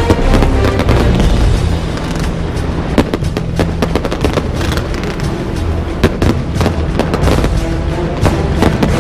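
Aerial fireworks exploding in a run of sharp bangs over loud music, the strongest bangs about three and six seconds in.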